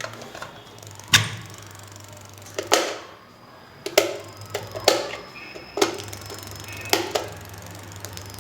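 Stand fan's electric motor humming steadily on mains power, with a series of sharp clicks and knocks about once a second.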